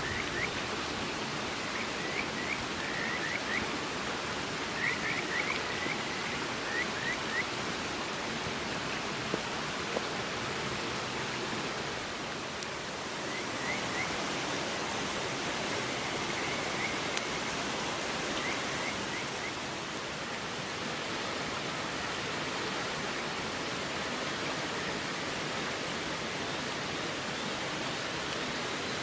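River water rushing steadily. Groups of short, high chirps come several times in the first two-thirds.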